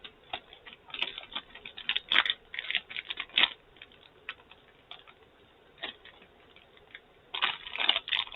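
A gummy bear being chewed close to the mouth: a string of small wet clicks and smacks, busier about a second in and again near the end.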